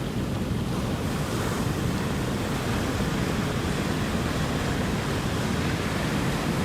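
Ocean surf: a steady rush of waves breaking and washing in, swelling slightly about a second in.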